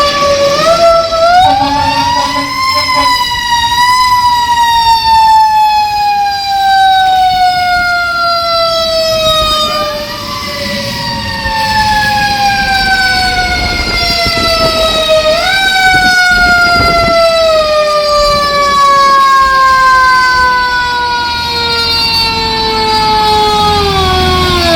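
Fire truck siren sounding loud: its pitch rises in the first few seconds, then falls slowly over several seconds, picking up again twice with short rises before sliding down once more. A heavy truck engine runs underneath.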